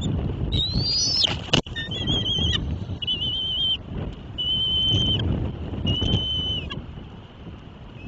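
A bird giving a series of clear, high whistled notes, some rising and some wavering, each held for up to a second, over wind rumbling on the microphone. There is one sharp click about one and a half seconds in.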